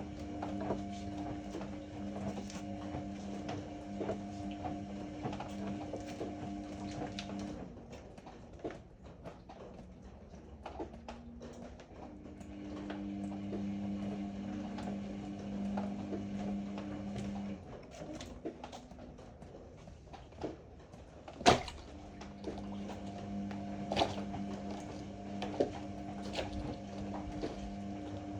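Ariston AML125 washer-dryer's drum motor running with a steady hum, stopping about seven seconds in, running again for about five seconds, then starting once more just after a sharp click about 21 seconds in, the stop-start pattern of a drum that turns and pauses during a cycle. Light knocks and clicks sound throughout.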